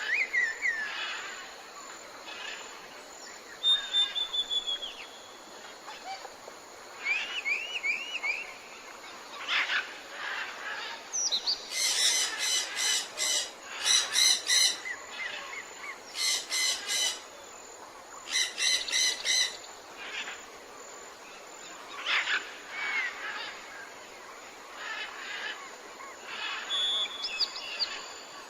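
Several birds calling in a forest soundscape: scattered chirps and whistled glides, with four bursts of fast, rattling pulsed calls, each about a second long, near the middle.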